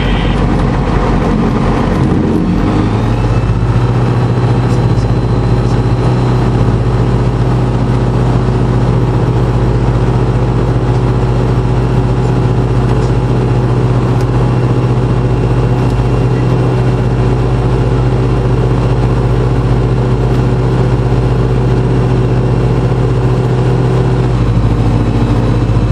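Motorglider engine running in flight, heard from inside the cockpit as a loud, steady drone. Its pitch steps up about two and a half seconds in as power comes on, holds steady, and drops back near the end.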